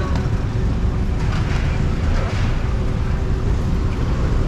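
Busy street traffic: a steady low rumble of passing vehicles.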